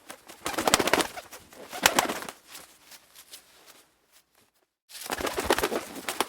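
Pigeons cooing, with many short clicky sounds among the calls. The sound breaks off completely for about a second just after the middle, then resumes.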